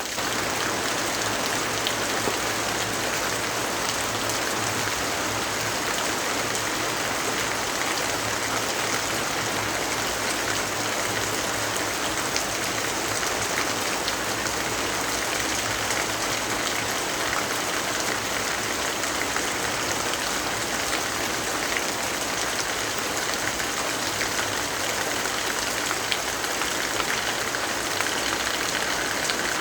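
Steady heavy rainfall, a dense even hiss of drops pattering on surfaces.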